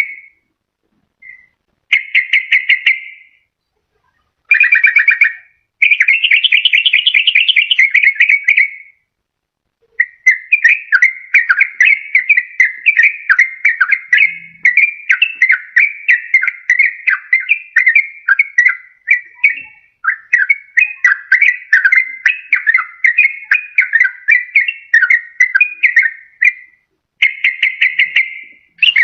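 Yellow-vented bulbul (trucukan) song played as a lure: several short bursts of fast, bubbly notes in the first few seconds, then from about ten seconds in a long, almost unbroken run of rapid chattering song.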